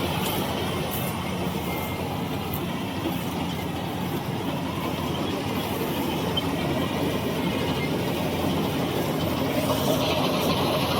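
Combine harvester running steadily, its engine and cutting and threshing machinery making a constant mechanical din.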